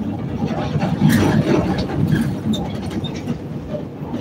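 CTA Red Line rapid-transit train running between stations, heard from inside the car: a steady rumble of wheels on rail with scattered clicks and knocks, a little louder about a second in.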